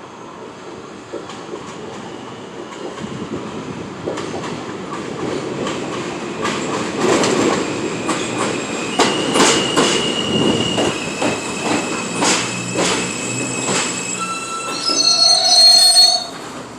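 R160A subway train pulling into the station: a rumble that builds, clacking over the rail joints, and wheel and brake squeal that grows into a louder high squeal near the end as the train comes to a stop.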